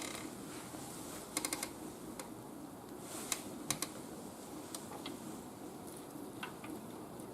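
Wood fire crackling in a barbecue grill: a steady low hiss with sharp pops, a quick run of four about a second and a half in and two more single pops a little after three seconds.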